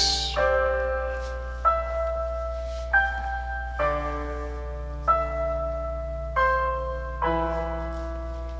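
Slow piano chords from a song's outro, a new chord struck about every second or so and left to ring out, with the drums falling away just as it begins.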